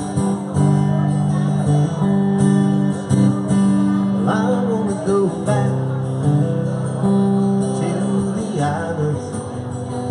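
Live music: an acoustic guitar strummed through the instrumental opening of a song, before the singing starts.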